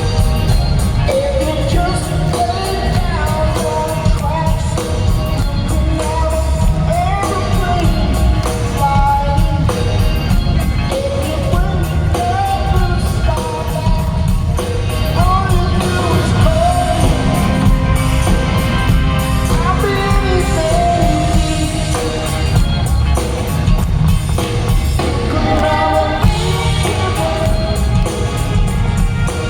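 Live rock band playing loudly, with singing over a heavy, steady bass.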